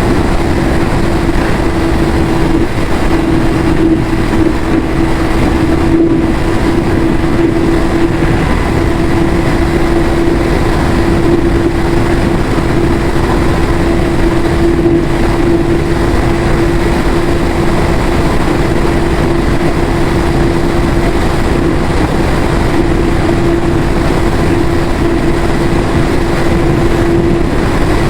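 Yamaha YZF-R6 600 cc inline-four engine on its stock exhaust, running at a steady, unchanging pitch under a constant loud rushing noise, with no change in revs.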